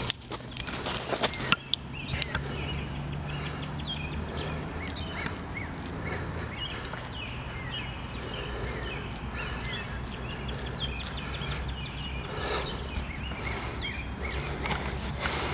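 Several wild birds chirping and calling. A short, high trill repeats every several seconds, over a low steady rumble, with a few sharp clicks in the first two seconds.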